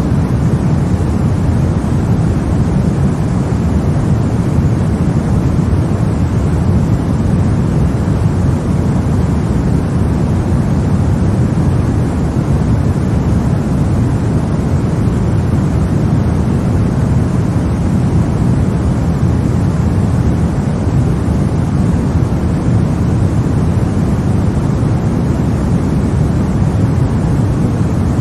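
Steady sleep-aid noise for babies, a deep, even rumbling hiss that is heaviest in the bass and never changes.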